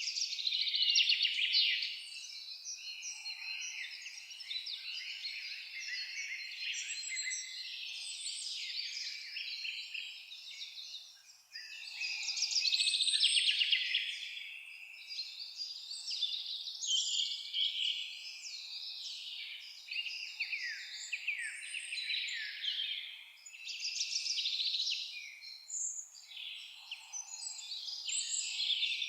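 Several songbirds singing and chirping over one another in a dense, continuous chorus of high trills and twitters.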